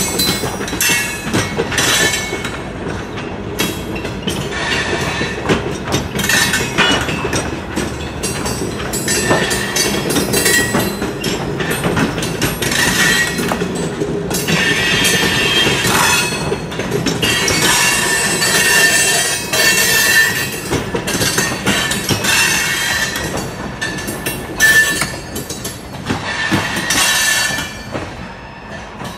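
Freight cars rolling past over a grade crossing, with wheels clacking over the rail joints and intermittent wheel squeal. The sound falls away near the end as the last car clears the crossing.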